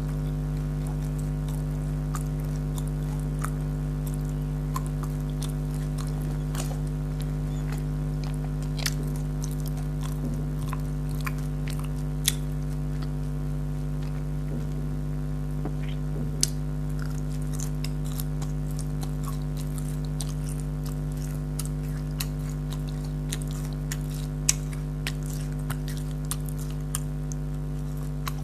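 Close-up chewing and biting of jalebi, syrup-soaked fried sweets, with scattered sharp, sticky mouth clicks. A steady electrical hum underneath is the loudest thing throughout.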